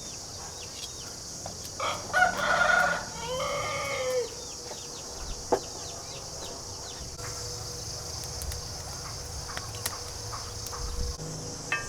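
A rooster crows once, about two seconds in, a call lasting a couple of seconds that falls away at the end, over a steady high drone of insects.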